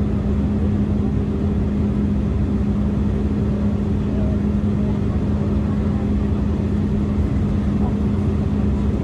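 Cabin noise inside an Embraer E175 jet airliner in flight: a loud, constant low rumble of engines and airflow with a steady hum.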